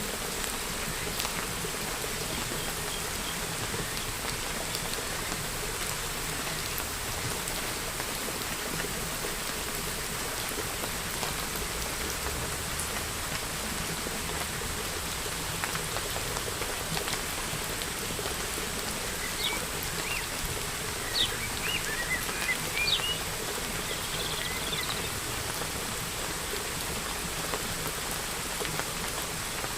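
Steady rain falling, with scattered drops tapping. A bird chirps briefly several times about two-thirds of the way through.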